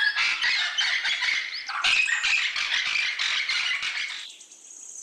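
Cockatoo squawking and chattering in quick, overlapping harsh calls that break off about four seconds in.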